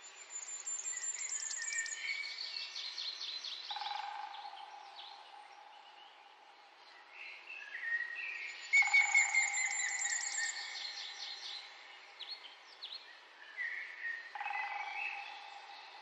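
Wild birds singing. There are two bouts of rapid, high trills that fall in pitch: one at the start and a louder one about halfway through, with shorter calls near the end.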